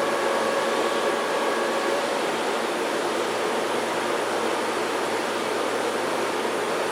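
Keihan 3000 series electric train running, a steady rushing noise of wheels on rail, with a faint whine that fades out about two seconds in.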